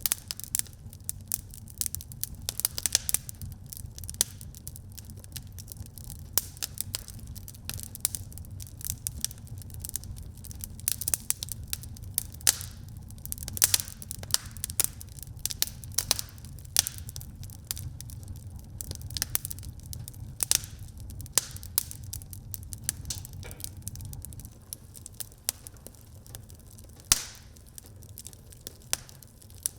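Wood fire burning in a fireplace, crackling and popping: many irregular sharp snaps of burning wood over a steady low rumble of the flames.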